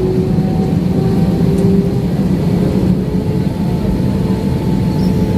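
Steady drone of an Airbus airliner's jet engines and airflow heard inside the passenger cabin, with a low hum and a few faint steady whining tones above it.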